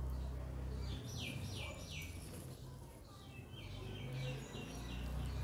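Birds chirping in the background: a quick run of three falling chirps about a second in, then a string of shorter chirps, over a low steady hum.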